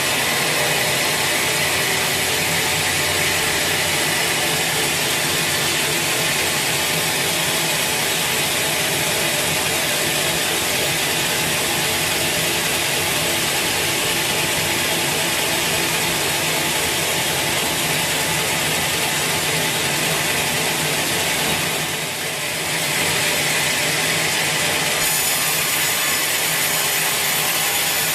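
Sawmill saw cutting through a large teak log, a loud steady grinding of blade in wood that dips briefly about three quarters of the way through and then carries on.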